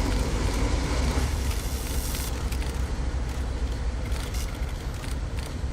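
Steady low rumble of a vehicle, with a crackly noise over it.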